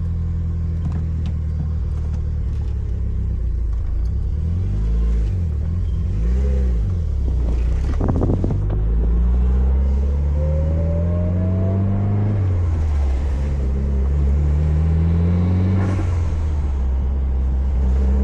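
Mitsubishi Lancer Evolution IX MR's turbocharged 4G63 inline-four heard from inside the cabin as the car pulls away: the revs rise and fall twice, then climb steadily, with the pitch dropping at each upshift about halfway through and again near the end before climbing once more.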